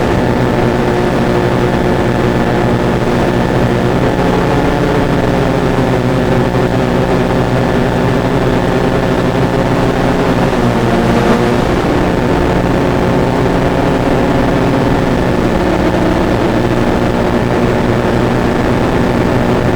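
Multirotor drone's motors and propellers running steadily in flight, a hum made of several pitches at once, which wavers briefly a little past halfway through.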